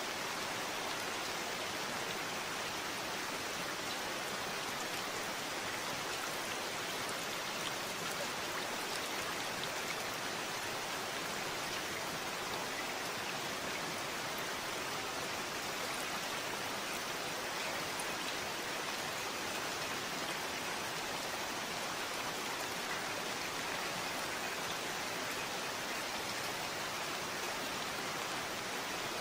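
Steady rain falling, an even hiss of dense drops with faint individual patters.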